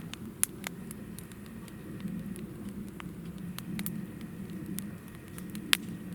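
Hinoki (Japanese cypress) firewood crackling in a campfire: sharp pops and snaps scattered irregularly over a steady low rush of flame, with one louder pop near the end.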